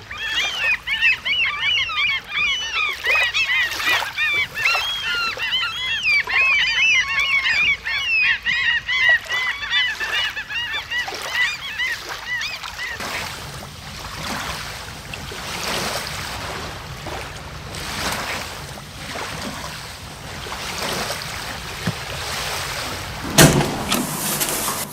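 A flock of gulls calling: many short cries overlapping for about half the stretch, then thinning out, leaving a steady rushing noise. A single sharp knock near the end.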